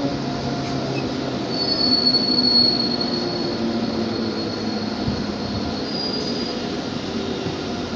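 Indian Railways passenger train running on the track, heard from an open coach door as a steady rumble of wheels on rail. A high-pitched wheel squeal sets in about a second and a half in and lasts a couple of seconds, with a shorter squeal near six seconds.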